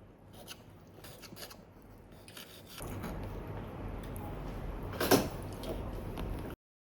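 Small household handling noises: light clicks and rubbing, joined by a steadier rushing noise about three seconds in, with one sharp click near the end before the sound cuts off.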